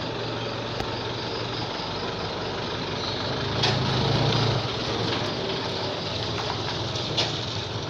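Truck engine running at low speed, with a low hum that swells briefly about halfway through, and a couple of sharp clicks.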